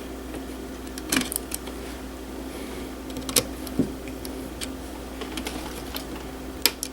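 Scattered sharp clicks and light clatters of small parts being handled while thermostat wires are unhooked and labelled, over a steady low hum.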